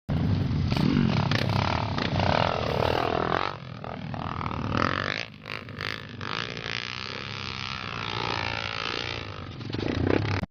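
Trail motorcycle engines revving hard, the pitch rising and falling as the throttle is worked. The sound is loudest at first, drops off sharply a little after five seconds in, and swells again near the end.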